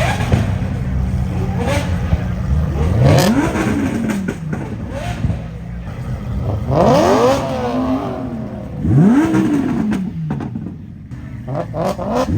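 A car engine idling and revved about four times, a few seconds apart. Each rev climbs quickly in pitch and falls back to idle.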